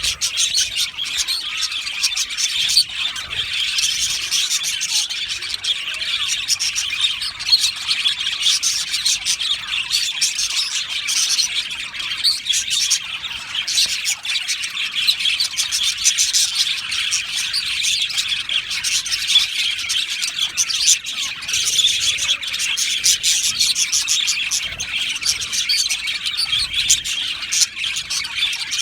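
A flock of budgerigars in an aviary chirping and warbling, many birds at once in a dense, continuous chatter.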